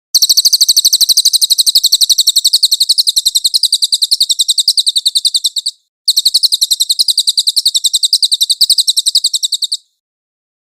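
A small songbird sings a long, rapid, high-pitched rolling trill of many notes a second, lasting about five and a half seconds. After a brief break, a second trill of nearly four seconds follows. This is the 'ngeroll' trill used as masteran song for training cage birds.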